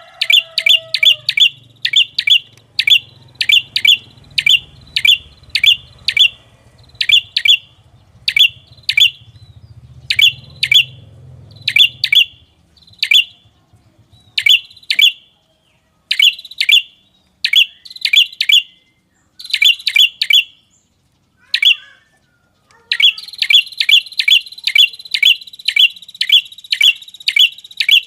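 Lure call of the red-headed prenjak, a small Indonesian warbler: sharp, high chirps repeated in quick clusters of two to four. There is a short pause about three-quarters of the way through, then a faster, unbroken run of chirps.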